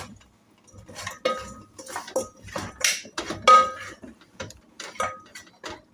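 Metal cooking pot and utensils clinking and clanking as they are handled: about a dozen irregular knocks, several ringing briefly.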